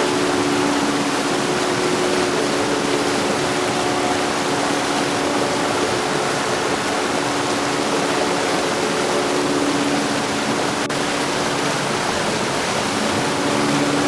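Heavy rain falling steadily, a dense even hiss with no thunder. Faint steady tones hum underneath.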